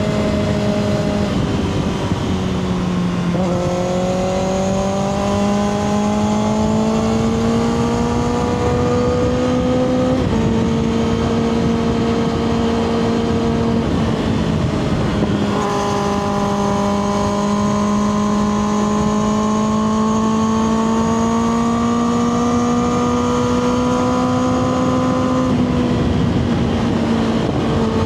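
2024 Kawasaki ZX-6R's inline-four engine through a Two Brothers slip-on exhaust, heard while riding. It pulls twice, the revs climbing slowly and the note getting stronger, and eases off about ten seconds in and again near the end. Road and wind noise run underneath.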